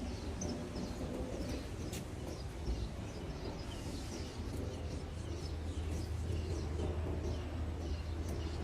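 Small birds chirping and twittering in many short, repeated notes over a steady low rumble.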